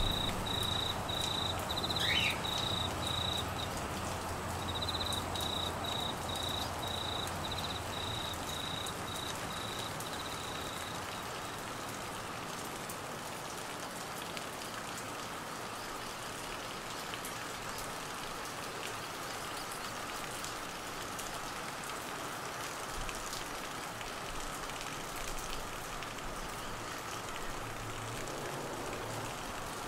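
Steady heavy monsoon rain falling on trees and grass, an even hiss. A cricket chirps in a fast pulsing trill through about the first ten seconds, with a short break, then falls silent. A brief rising whistle comes about two seconds in.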